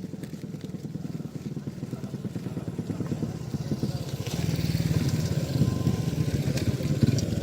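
A small engine running with a fast pulsing beat, getting louder about four seconds in as it draws nearer.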